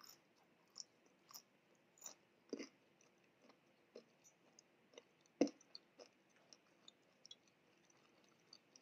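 Close-miked chewing of French fries: faint, scattered mouth clicks, the loudest a little past halfway through.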